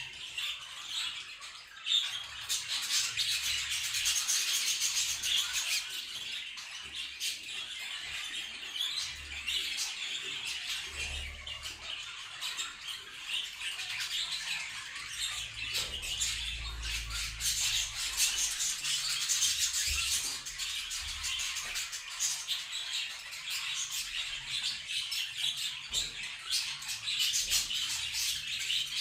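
Budgerigars chirping and chattering non-stop, a dense mix of many short sharp calls, with a brief low rumble near the middle.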